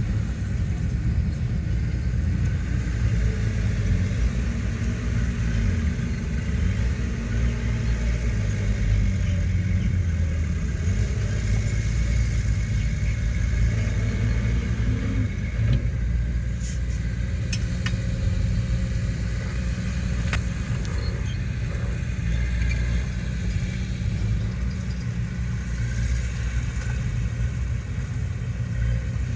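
Heavy earthmoving machinery's diesel engine running steadily with a low rumble, with a few light clicks about halfway through.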